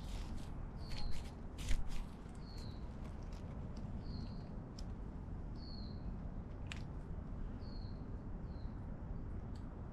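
A small bird calling over and over, each call a short, high, falling chirp, about one every one to two seconds, over a steady low outdoor rumble. A few sharp clicks come in the first two seconds and one more near the end.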